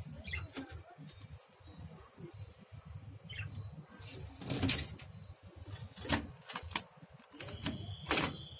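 Pet lovebirds giving short high chirps, with a few sharp knocks or rattles scattered through.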